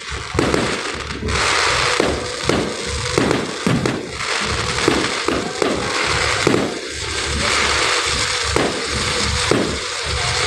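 Aerial fireworks display: a rapid string of sharp bangs, roughly one or two a second, over continuous dense crackling.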